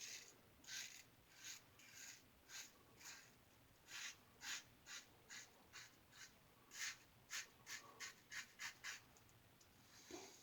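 Faint scraping strokes of a 1914 Ever-Ready single-edge safety razor cutting lathered stubble on an against-the-grain pass: about seventeen short strokes, roughly two a second, each a brief rasp, stopping about a second before the end.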